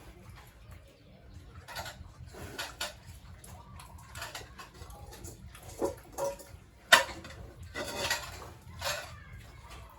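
Irregular clatter and scraping, a series of knocks and rasping strokes, with one sharp knock about seven seconds in.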